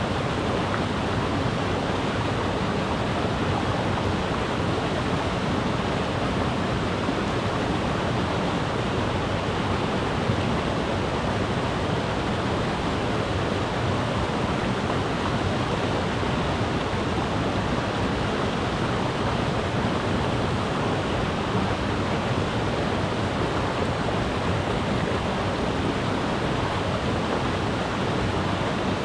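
Mountain river rushing over rocks, a steady, even roar of water.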